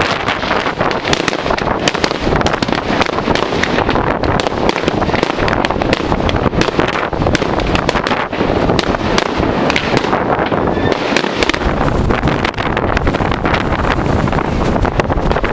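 Many fireworks going off at once: a dense, unbroken run of bangs and crackles, with wind buffeting the microphone.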